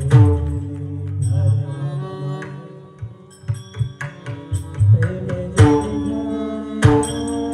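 Abhang devotional music: pakhawaj drum strokes over steady held notes, with sharp ringing strikes. The playing thins out for a moment in the middle and picks up again after about five and a half seconds.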